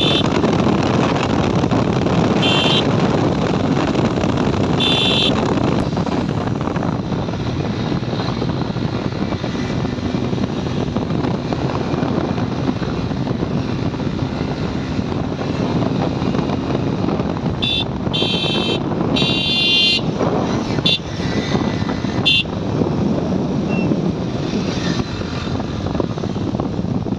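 Motorcycle ride through traffic: a steady engine and road rumble with wind on the microphone. Short horn beeps sound at the start, about three and five seconds in, and in a cluster later on.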